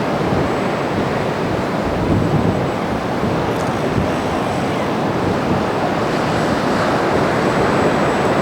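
Ocean surf washing steadily on the beach, mixed with wind buffeting the microphone.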